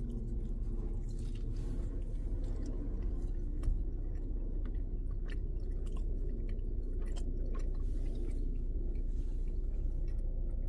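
A person chewing a mouthful of pizza close to the microphone, with scattered small wet mouth clicks, over a steady low hum.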